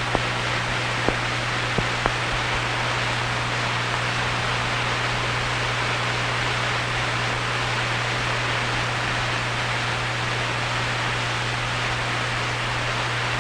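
Steady hiss and low hum from an old film soundtrack, with a few faint clicks in the first two seconds.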